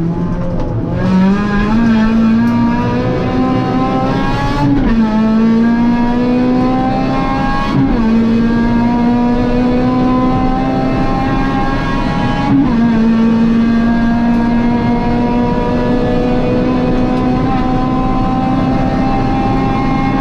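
Honda Civic Type R race car's four-cylinder engine heard from inside the cabin, accelerating hard at high revs. Its pitch climbs, drops sharply at each of three upshifts and climbs again, with a long, slowly rising pull after the last shift.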